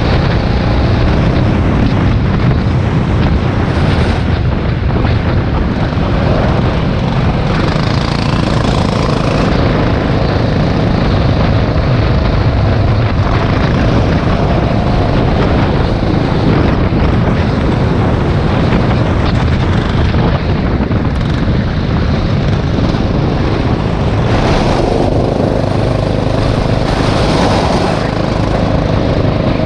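Rental go-kart engine running hard during a race, a loud, continuous buzzing drone that swells and eases as the throttle changes.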